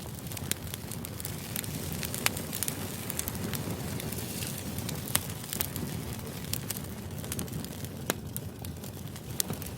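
Fire crackling as a background ambience: a steady low rush with irregular sharp pops and snaps throughout.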